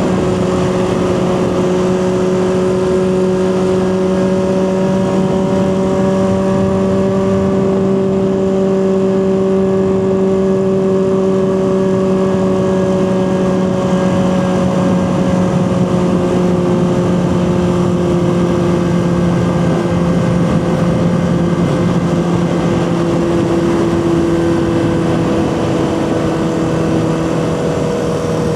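Honda CB400/4 Super Sport's air-cooled inline four-cylinder engine running steadily at a cruise. Its pitch rises slightly in the first few seconds, then eases slowly down through the rest.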